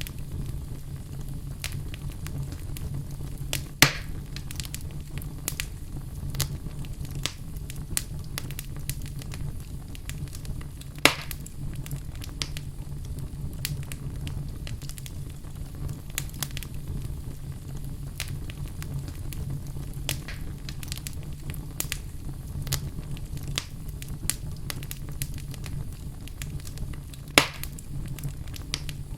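Wood fire burning in a fireplace, crackling steadily over a low rumble, with three louder pops spread through.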